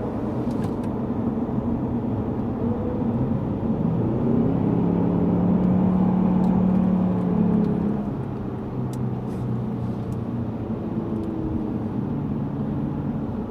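Lexus GS450h hybrid's 3.5-litre V6 engine rising in pitch under acceleration, holding a steady note for about three seconds, then falling away about eight seconds in as the car comes off the power.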